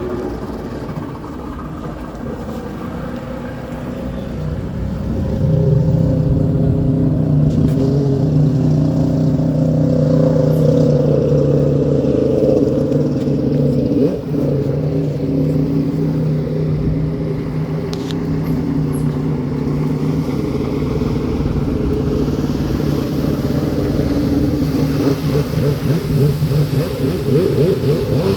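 An engine running steadily, getting louder about five seconds in and then holding at a steady pitch.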